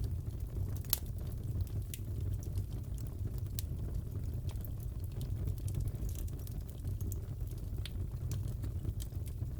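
Fireplace crackling: a steady low rumble of the burning fire with irregular small pops and snaps, one sharper snap about a second in.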